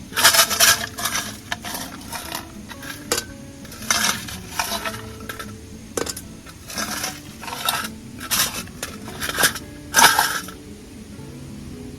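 Dishes and utensils clinking and clattering in an irregular run of sharp knocks and rattles, some of them ringing briefly.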